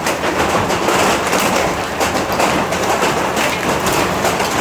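Hailstorm: hailstones pelting down in a dense, steady clatter of countless rapid, irregular impacts on hard surfaces.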